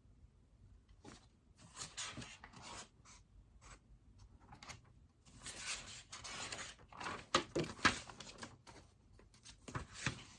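Pen scratching on paper in irregular strokes and short runs, with a few sharper taps of the pen.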